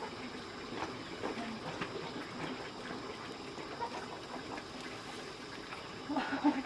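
Water running steadily. A brief voice cuts in near the end.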